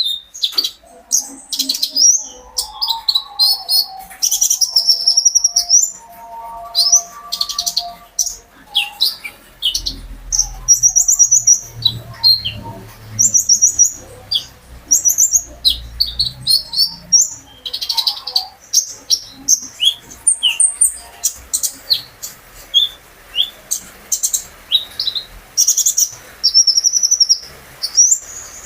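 A konin songbird singing hard: a fast, continuous run of sharp high chirps and short rising and falling trills. There is a faint low rumble in the middle.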